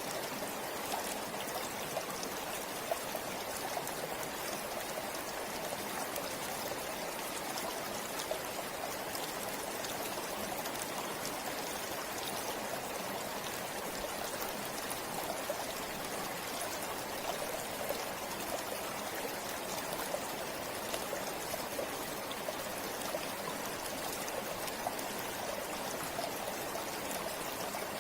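A river flowing over rocks, a steady rush of water with fine splashes and trickles through it.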